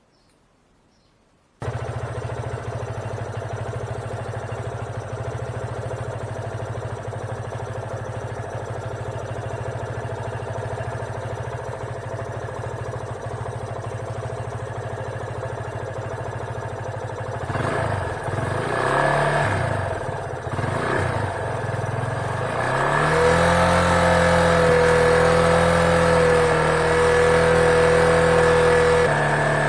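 Car engine running, cutting in abruptly after a second and a half of near silence and idling steadily. It is revved up and down a few times about 18 to 22 seconds in, then held at a raised, steady speed with a whine until it drops back just before the end.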